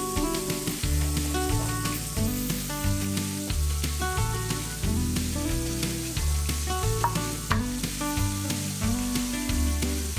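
Flour-dredged capelin frying in shallow vegetable oil in a pan, sizzling with many small crackles and pops. Background music with a bass line plays over it.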